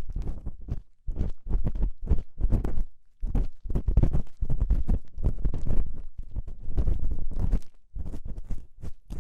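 Ear-cleaning tool scraping and rubbing inside a binaural microphone's ear, in an ASMR ear-cleaning routine: a quick run of scratchy strokes with a few short pauses, heavy in the low end.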